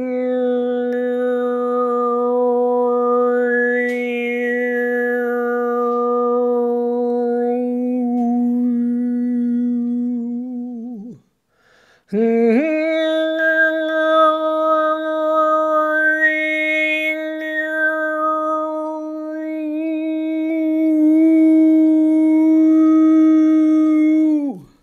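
A woman's voice toning wordlessly in two long held notes, each about eleven seconds, with a brief breath between them. The second note is a little higher, and the vowel shifts slowly so the overtones swell and sweep within each note. These are channeled healing vocal sounds.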